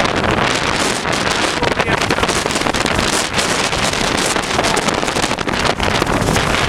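Storm-force wind, around 65–80 mph, buffeting the microphone: a loud, constant rush of noise with rapid gusty swells.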